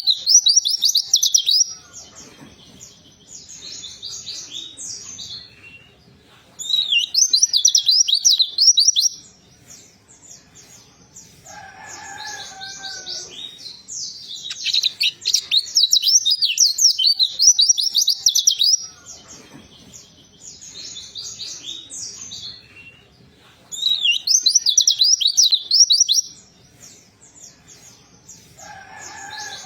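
Pleci (white-eye) song: loud bursts of rapid, high twittering warble lasting a few seconds each, with quieter twittering in between. The song is used as a pancingan, a call recording meant to provoke a silent pleci into singing. A lower two-note whistled call sounds once near the middle.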